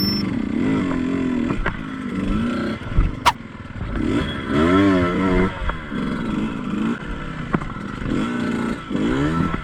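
Two-stroke dirt bike engine being ridden, its revs rising and falling over and over as the throttle is worked, with a few sharp knocks and clatter.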